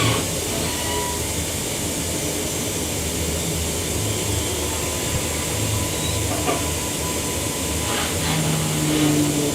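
Steady running noise inside a moving Queensland Rail EMU electric train: wheels on the rails and a low hum, with a few faint knocks.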